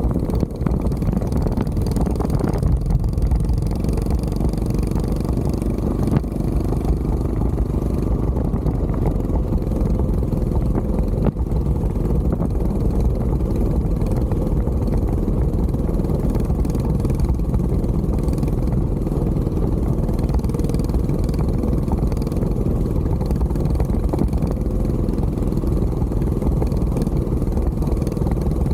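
Mini bike's small engine running steadily while being ridden.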